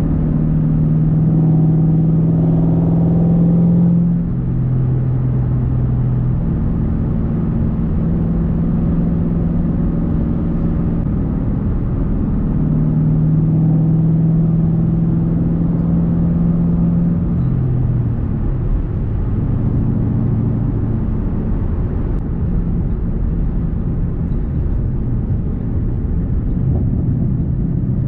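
2010 Mustang GT's straight-piped 4.6-litre three-valve V8 running while driving, its exhaust note stepping down and back up several times as speed and gears change.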